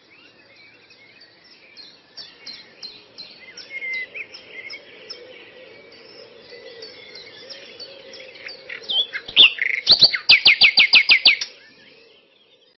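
Birds chirping, with a loud, fast trill of rapidly repeated notes about ten seconds in, over a faint steady low tone. It fades out near the end.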